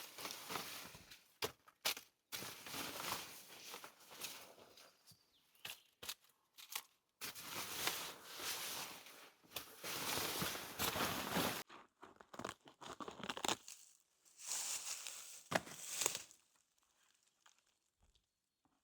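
Bushcraft woodwork by hand: long scraping and rustling stretches of wood and branches being worked, broken by sharp snaps and knocks.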